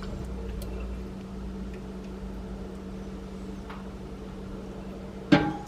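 A steady low hum with a few faint light taps, and one short sharp sound near the end.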